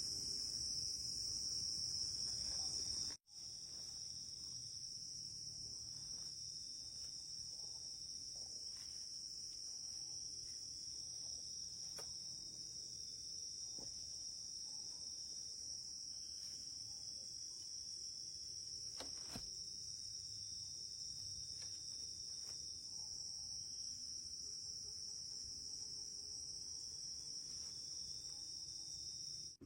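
Night insects, crickets or similar, keeping up a steady, high-pitched, unbroken chorus, with a brief gap about three seconds in.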